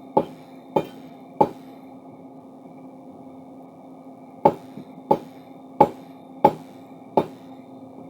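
Hammer blows on steel while a crowbar is forged: three evenly spaced strikes, a pause of about three seconds, then five more, about one and a half a second, over a steady hum.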